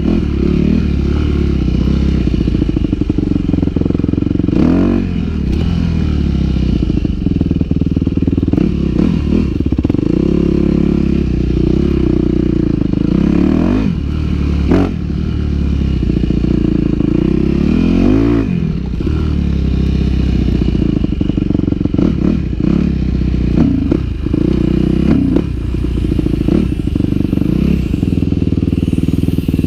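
Yamaha WR250F's single-cylinder four-stroke engine running under way, the revs rising and falling repeatedly with the throttle and gear changes, with sharper sweeps about five, fourteen and eighteen seconds in.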